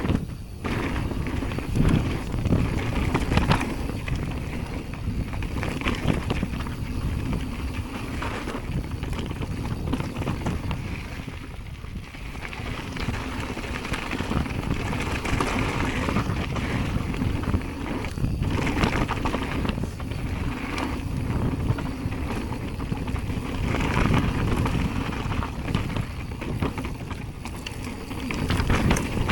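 Jamis Hardline mountain bike being ridden down a bike-park trail: tyres rolling over dirt and wind buffeting the microphone, with occasional knocks and rattles over rough ground.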